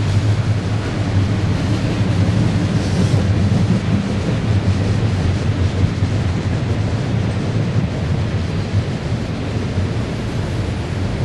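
Norfolk Southern unit trash train's container cars rolling past: a steady low rumble of wheels on rail.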